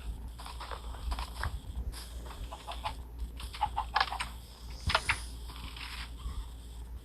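A small pet bird's short chirps and clicks, coming in quick, irregular runs that are thickest about four to five seconds in.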